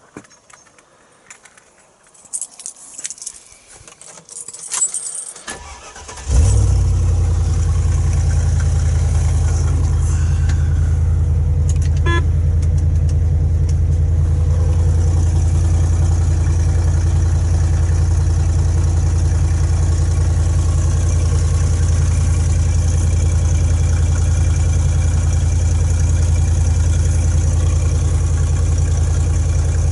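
A few small clicks and rustles, then about six seconds in the Range Rover P38's V8 starts and settles into a steady idle, low-pitched and loud through a cut-down exhaust with only an offset silencer and a short turn-down pipe.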